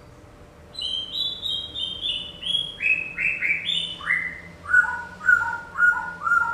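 A songbird whistling a run of clear notes, each a short downward slide, stepping lower in pitch over about three seconds, then switching to a quicker back-and-forth between two lower notes.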